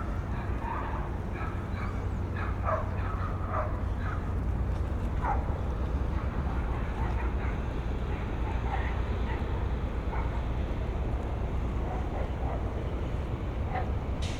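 Outdoor waterfront ambience: a steady low wind rumble on the microphones, with scattered short high calls in the distance, several close together in the first few seconds and a few more later.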